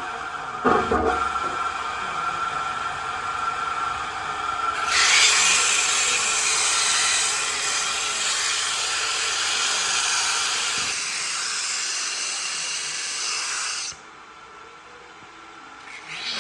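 Woodworking power tool running on wood: a steady machine hum with a knock just under a second in, then from about five seconds a loud, even hiss for about nine seconds that cuts off suddenly.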